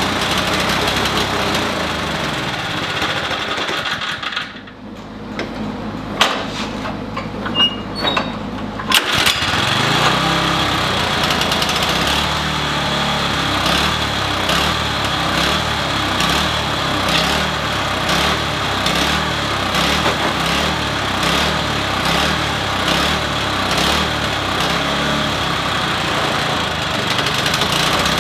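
Toro snow blower's small engine running. It drops back for a few seconds with a few knocks, then about nine seconds in it picks up with a rise in pitch and keeps running with its speed surging up and down unevenly: the engine hunting before it has warmed up, just after its plugged carburetor main jet was cleaned.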